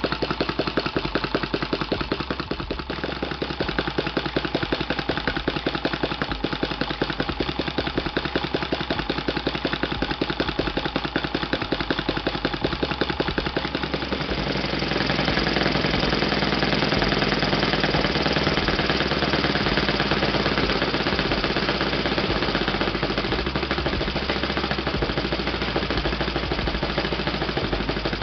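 Kalt FC-1 four-stroke glow model engine running on its test stand with a propeller, idling with an even ticking beat. About halfway through it speeds up and runs louder until the end.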